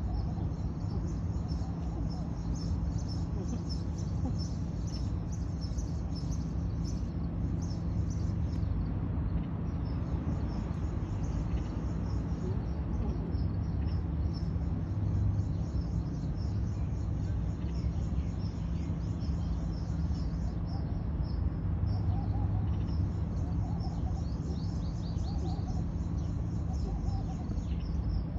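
Birds chirping rapidly and continuously in the background over a steady low rumble, with a couple of short lulls.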